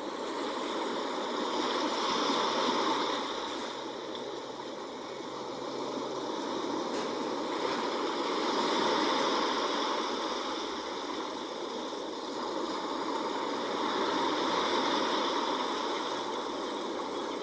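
Sea waves washing in, a steady rushing of water that swells and eases about every six seconds.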